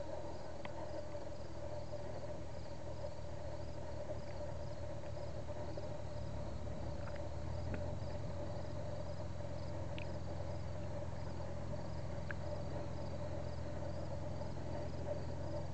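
Insects chirping steadily in a regular pulsing rhythm, with a few short higher chirps. Under them is a low steady drone that grows slightly about halfway through.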